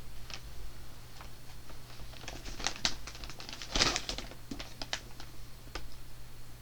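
Paperback books being handled: a string of light clicks, taps and crinkles, loudest about four seconds in.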